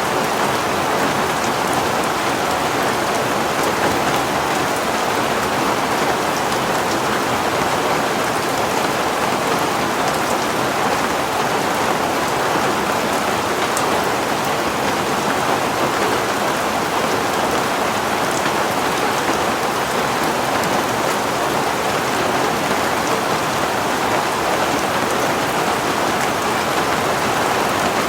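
Heavy rain falling steadily, an even downpour with scattered drop ticks.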